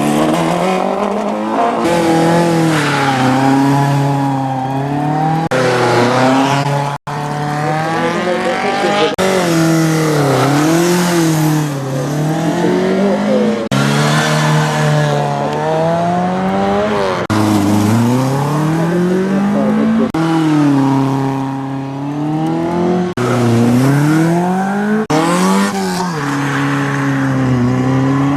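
Classic car engines revving up and down hard as they are driven through a tight gymkhana course. The engine pitch rises and falls every second or two, and the sound changes abruptly every few seconds from one car to the next.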